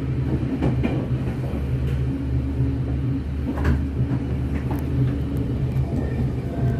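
Commuter train running between stations, heard from inside the carriage: a steady low rumble with a few faint knocks.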